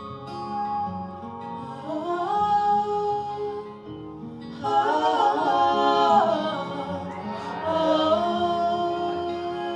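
Wordless vocal harmonies, several voices singing together without words, over acoustic guitar. The voices slide in pitch and swell louder about halfway through.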